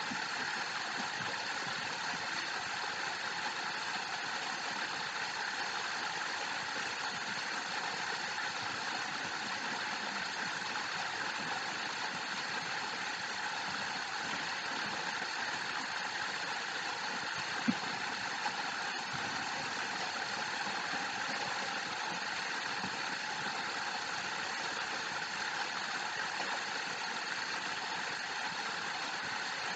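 Steady rushing of a waterfall, an even wash of falling water, with one brief faint click about two-thirds of the way through.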